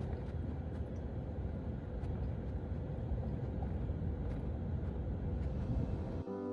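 Pickup truck driving, a steady low rumble of engine and road noise. Piano music comes in near the end.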